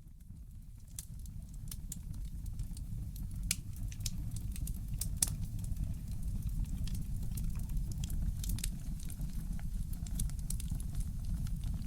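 Wood fire in a fireplace crackling, with irregular sharp pops and snaps over a low steady rumble. The sound fades in over the first couple of seconds.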